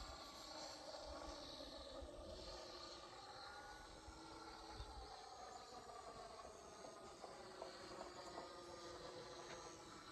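Faint drone of a radio-controlled P-51 Mustang model flying at a distance, its motor pitch drifting slowly up and down as it passes.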